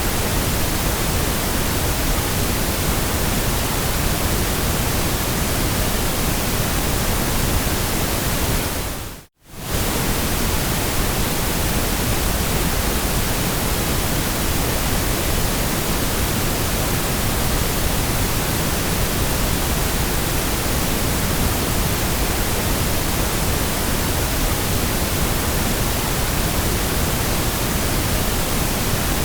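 Steady white noise: an even, unbroken hiss across the whole range from low to high. About nine seconds in it briefly fades out to silence and straight back in.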